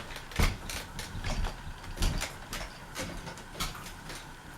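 Irregular series of sharp clicks with two dull thumps, about half a second and two seconds in, from a ceiling fan's pull-chain switch being worked to start the fan.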